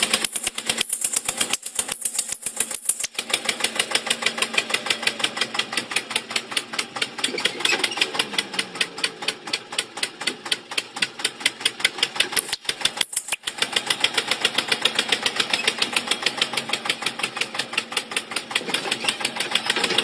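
Mini tractor running with a fast, even, engine-like knocking of several beats a second. It cuts out briefly a few times in the first three seconds and again about 13 s in.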